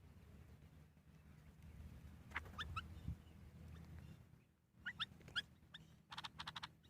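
Faint bird calls: a few short chirps, then a quick run of rapid notes near the end, over a low hum.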